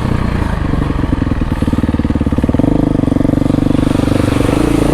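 Dirt bike engine running hard under load, its pitch climbing about two and a half seconds in and then held high, as the bike pushes through a deep muddy water hole.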